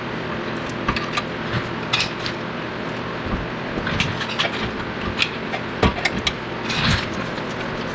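Metal hand tools clinking against brake parts, a scatter of short, sharp clinks over a steady background hum.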